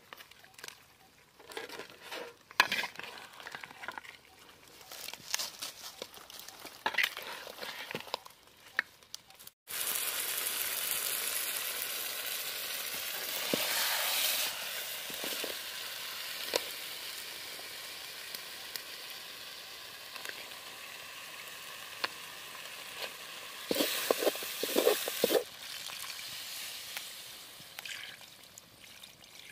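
Crab curry masala frying in a black kadai while a metal ladle scrapes and stirs it. Scattered scrapes at first, then about ten seconds in a steady sizzle starts suddenly and runs on, with a quick run of louder ladle scrapes near the end.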